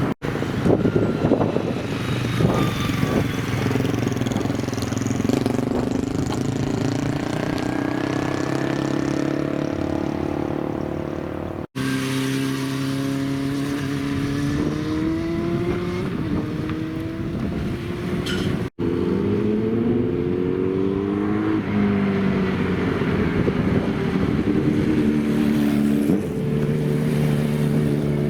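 Old motorcycle engines running and accelerating, the pitch climbing and dropping back again and again as the throttle is opened and the gears change. The sound breaks off abruptly twice as one recording gives way to the next.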